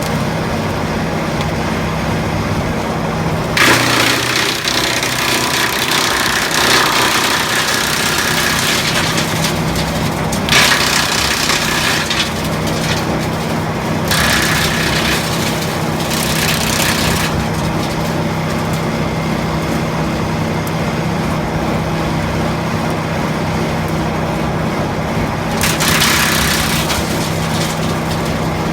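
Tractor-driven Demarol R10 branch chipper running at a steady speed, with branches being fed in and shredded in four spells of loud crunching, the longest lasting several seconds.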